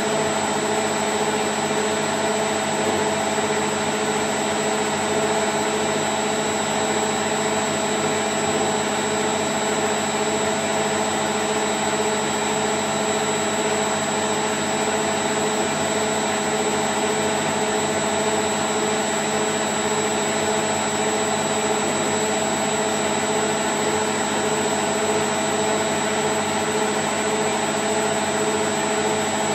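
Candy Grand O' F106 washing machine on its spin cycle at 1000 rpm: a steady, even whirring rush with a constant motor hum, no change in speed.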